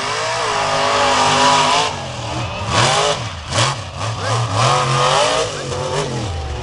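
Monster truck engine revving hard: a long pull at first, then its pitch swings up and down several times in quick succession before dropping away near the end.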